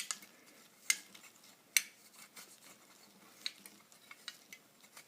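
Thin aluminium drink-can edge being flared out by hand, giving scattered sharp metallic clicks and crinkles. Three louder clicks come in the first two seconds, then lighter ticks.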